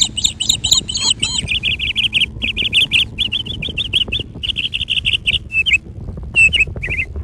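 Birds chirping in quick runs of short, high calls, with brief gaps, over a steady low rumble.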